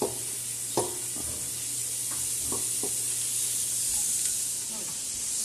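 Garlic sizzling in hot coconut oil in a stainless steel pot, stirred with a utensil that taps against the pot a few times, most sharply at the start and about a second in.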